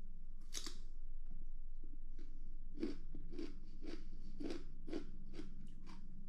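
A person chewing crunchy raw vegetables close to the microphone, with a rhythm of crisp crunches at about three a second starting about halfway through.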